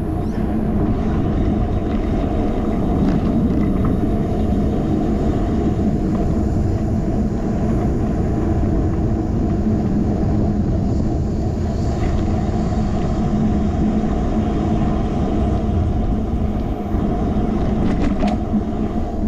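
Steady wind and road noise on a handlebar-mounted action camera's microphone while riding a bicycle, with a few brief rattles near the end.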